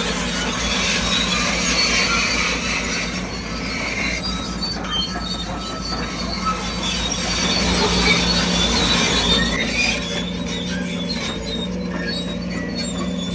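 Crawler bulldozer working, its diesel engine running steadily under high-pitched squealing from the steel tracks.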